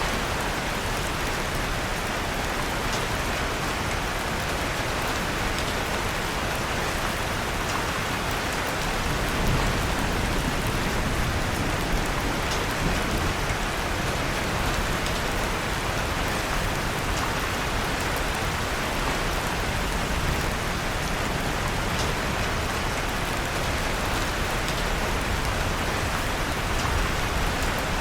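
Steady rain, an even hiss, with scattered faint crackles from a wood fire in a fireplace.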